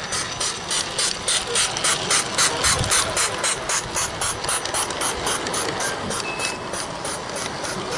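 Small live-steam garden-railway locomotive chuffing past with quick, even exhaust beats, about four or five a second. The beats grow loudest a few seconds in, then fade as it moves away.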